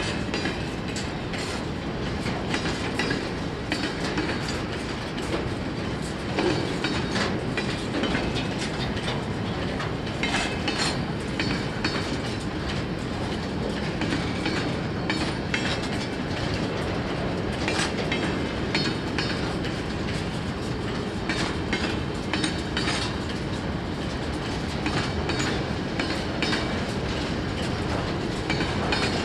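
Freight train wagons rolling past in a steady rumble, their wheels clicking over the rail joints again and again.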